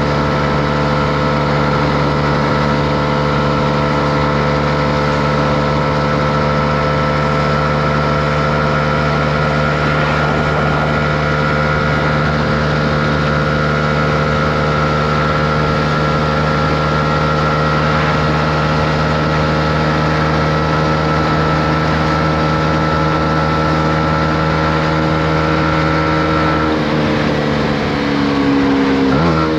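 Honda CB125R's single-cylinder four-stroke engine running at steady cruising revs, its pitch creeping up slightly. Near the end the revs drop off, then rise quickly again at the very end.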